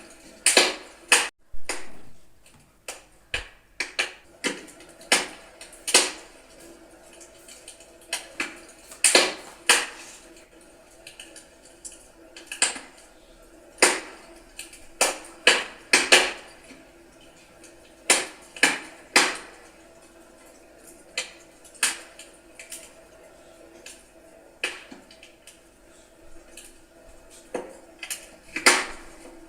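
Wood fire crackling: irregular sharp pops and snaps of burning logs, some in quick clusters, over a faint steady background.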